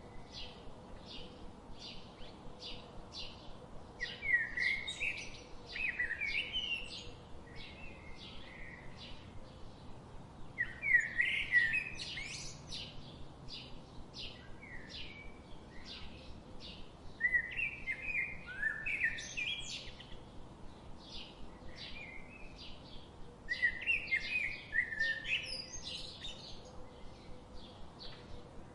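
Songbirds singing: one bird repeats a short high chirp about twice a second, while another breaks in every several seconds with a louder, quick warbling phrase.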